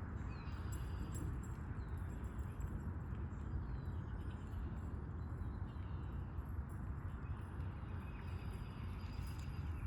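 Birds chirping faintly over a steady low rumble.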